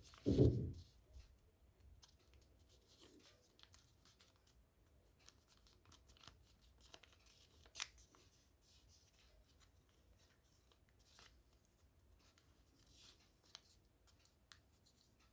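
Sheet of origami paper being handled and folded by hand, with faint scattered rustles and crisp creasing clicks. A low thump about half a second in is the loudest sound.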